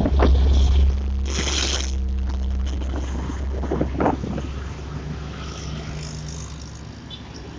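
Strong wind buffeting the microphone in a low rumble that eases off after the first second or two, with road traffic passing.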